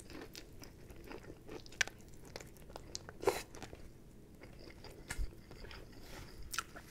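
Biting and chewing fried chicken, gnawing the meat off a piece on the bone, with soft crunches of the breaded coating and a few sharper crunches, the loudest about three seconds in.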